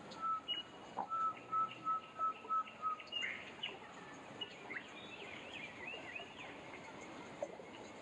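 Songbirds calling: a run of about eight even, clear whistled notes, about three a second, followed by a burst of quick twittering chirps, over a steady hiss of outdoor background noise.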